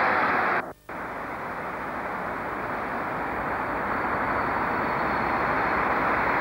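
Steady railway train noise, cut off briefly by a dropout at an edit just under a second in, then growing slowly louder as a train approaches.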